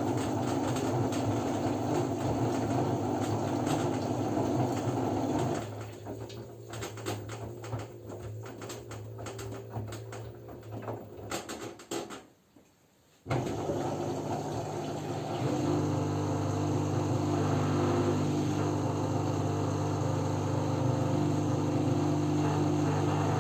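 LG F10B9LD front-loading washing machine in its first rinse: a steady machine hum stops about five seconds in, giving way to scattered clicks and sloshing from the drum. After a moment of near quiet, a steady hum with a few fixed tones starts abruptly about 13 seconds in and grows stronger a couple of seconds later.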